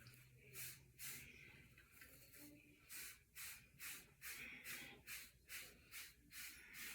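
Faint strokes of a wave brush's bristles swept through short hair, slow at first and then about three strokes a second from partway through.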